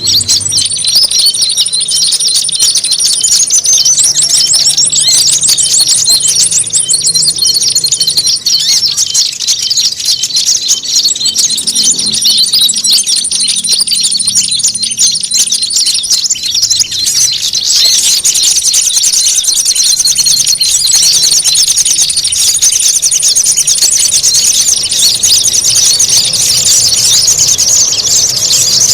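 Bird-lure recording of small songbirds calling noisily: a dense, continuous mass of high-pitched chattering calls, with rapid very high trills running in long stretches over it.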